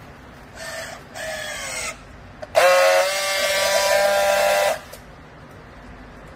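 Two short pitched hoots, then a louder steady horn-like tone held for about two seconds.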